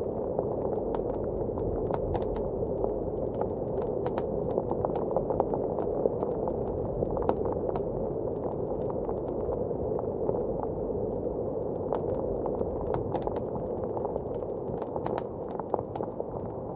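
Wood fire crackling in a fireplace, with frequent sharp pops and snaps, over a steady rushing blizzard wind.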